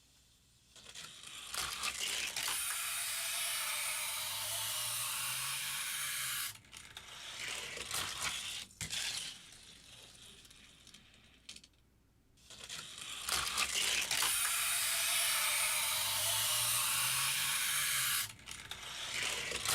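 A die-cast Hot Wheels car rolling fast along plastic track through loops and drops, a rushing, rattling run of about five seconds, heard twice. There are a few clicks and clatters between the runs.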